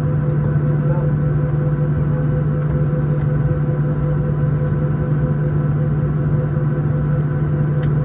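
Steady cabin drone inside a Boeing 737-700, the air conditioning running at max: a constant low hum with a faint steady whine above it.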